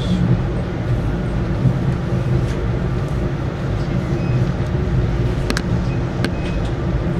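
Steady low rumble of a moving Alaska Railroad passenger train heard from on board, with a few short sharp clicks a little over five and six seconds in.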